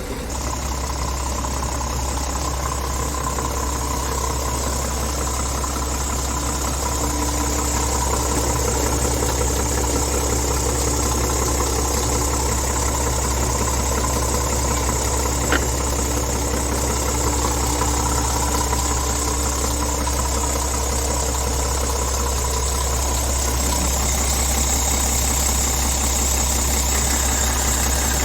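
Scania S truck's diesel engine idling steadily, a constant low rumble, with a single sharp click about halfway through.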